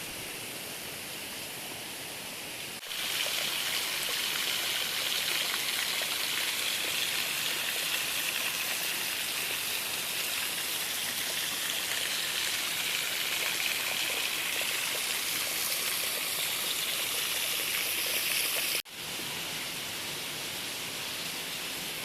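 Mamirli Waterfall's 15 m fall of water: a dense, steady rushing hiss of falling and splashing water. It jumps abruptly louder about three seconds in and drops back abruptly a few seconds before the end.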